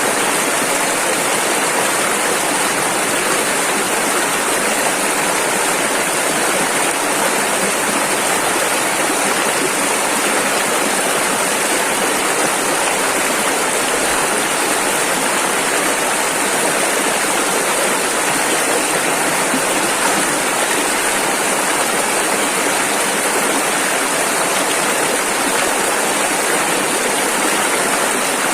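Rushing river water, a steady loud rush of rapids with no pauses or changes.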